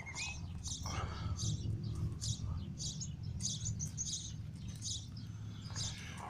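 Small birds chirping, short high chirps repeating about twice a second, over a steady low rumble.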